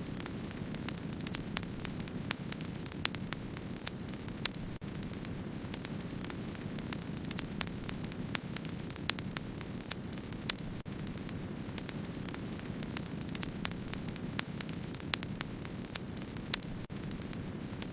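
Wood fire burning with a steady low rush, dotted with many sharp crackles and pops at irregular intervals.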